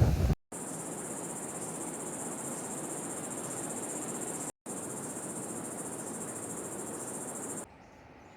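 Rainforest insects, cricket- or cicada-like, trilling in a steady, high-pitched chorus. The sound drops out briefly twice and stops abruptly near the end.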